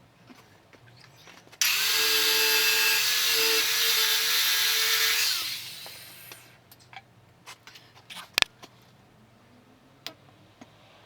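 A handheld power tool starts suddenly, runs at a steady speed for about four seconds, then is released and spins down. Afterwards come a few light clicks and one sharp knock.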